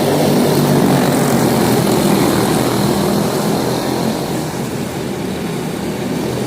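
Several quarter midget race cars with small single-cylinder Briggs & Stratton Animal engines running at racing speed together, a steady buzzing drone that wavers as the cars lap.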